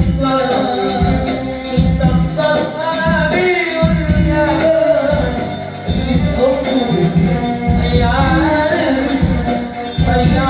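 Live Arabic tarab song: a male voice singing a melismatic melody over instrumental accompaniment with a steady percussion beat.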